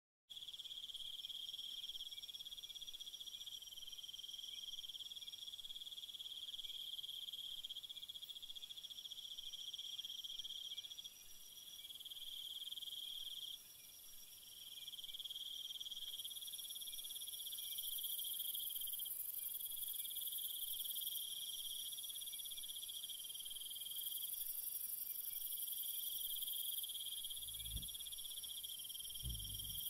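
Night-time jungle insect chorus: steady high trilling in several overlapping layers that fade in and out, with two brief low thumps near the end.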